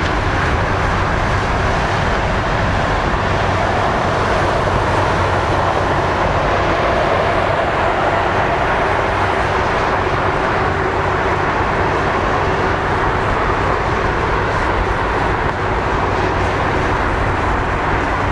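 Jet airliner engines running at high power, a steady loud noise with a faint whine in it.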